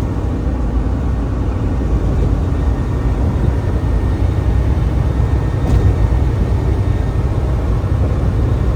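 Truck driving on the highway: a steady low rumble of engine and road noise.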